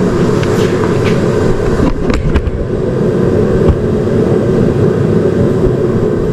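Steady loud running of a shop space heater, with two sharp clicks about two seconds in.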